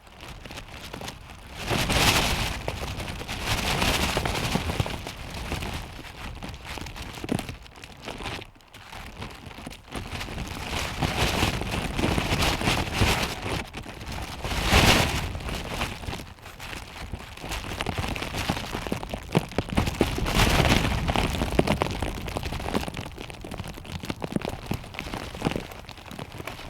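Strong wind in a snowstorm, gusting and easing off several times.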